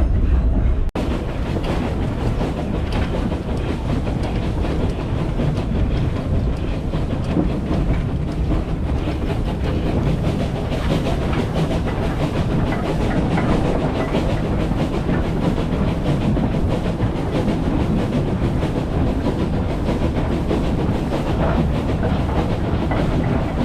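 A steam-hauled heritage train's carriage running along the rails: a steady, loud rolling rattle of wheels on track. The sound briefly cuts out about a second in.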